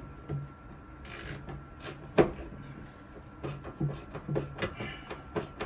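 A screw being worked back into its hole in wood with a screwdriver: a sharp knock about two seconds in, then a run of quick clicks.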